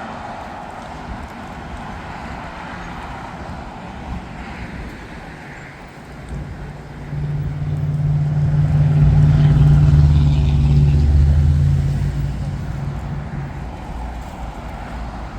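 A passing vehicle's low engine hum swells about halfway through, is loudest for a few seconds, then fades, over a steady background roar.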